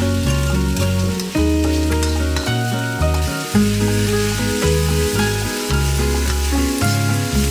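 Carrot strips and sliced red onion sizzling in a wok as a slotted metal spatula stirs them, under background music with a low bass line.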